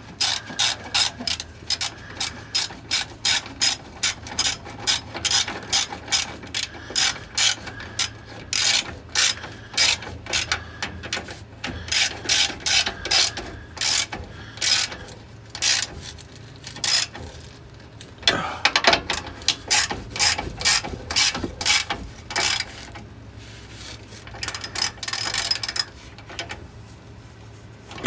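Hand ratchet wrench clicking in quick repeated strokes, about two or three a second, with a few short pauses, as a bolt is turned.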